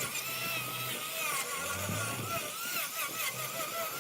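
Large wood lathe running while a workpiece is turned, with a low hum and a high whine that wavers up and down in pitch.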